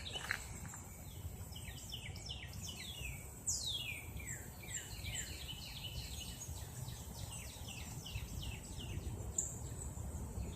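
Songbirds singing: a busy run of quick, downward-sliding chirps and whistles, several overlapping, over a low outdoor rumble.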